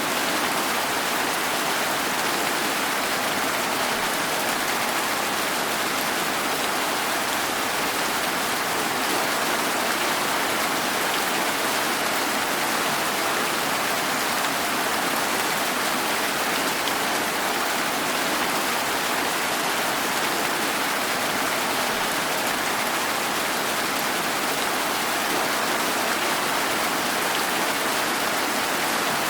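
Steady, even rain falling, a dense hiss of many drops with no single drops or thunder standing out.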